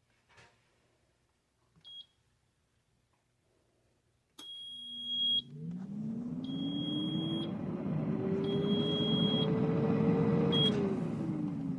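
Air fryer beeping and running. There is a click and a short high beep, then a run of longer beeps over the whir of its fan, which rises in pitch as the fan spins up. After a last short beep near the end, the whir drops in pitch as the fan slows.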